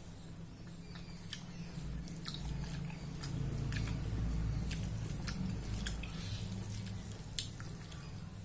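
Close-up wet chewing and smacking mouth clicks of someone eating rice and lentil dal by hand, with squishing as the fingers mix the food on a steel plate.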